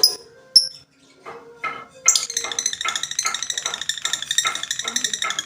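Two jingly clinks, then a lovebird's rapid chattering song: a fast run of short, harsh chirps, several a second, that starts about a second in and turns into dense, continuous chatter about two seconds in.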